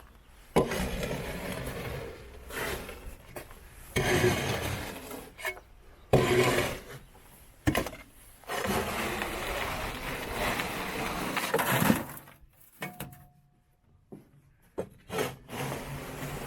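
GradrBlade hand scraper dragged over a truck bed surface in a series of rasping scraping strokes, each one to three seconds long with short pauses between. About twelve seconds in it goes quiet for a couple of seconds, then a few short scrapes follow.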